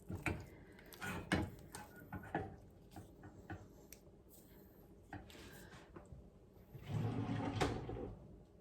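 A utensil stirring a thick melted chocolate, butter and cocoa mixture in a pot, with scattered knocks and scrapes against the pot. Near the end comes a louder, longer scrape lasting about a second and a half.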